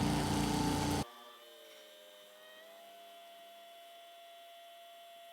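Kubota BX2380 tractor's three-cylinder diesel engine running, cut off abruptly about a second in. A faint steady electric whine and hum remains.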